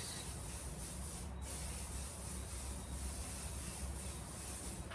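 Aerosol cooking spray (Spray and Cook) hissing as a baking pan is greased: two long sprays with a brief break about a second and a half in, cutting off sharply at the end. A low steady hum from an electric hand beater runs underneath.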